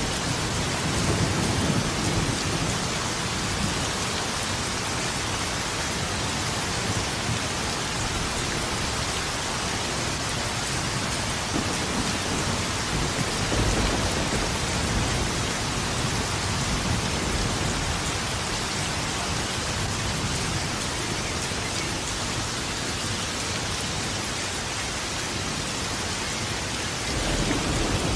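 Steady heavy rain in a thunderstorm, with low rolls of thunder swelling near the start, about halfway through and again near the end.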